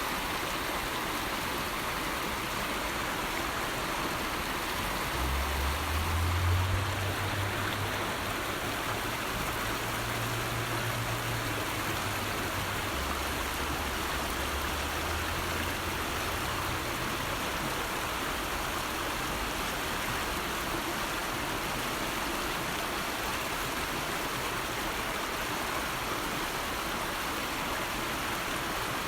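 River water flowing steadily, a constant rushing. A low rumble comes in about five seconds in, is loudest soon after, and fades out about halfway through.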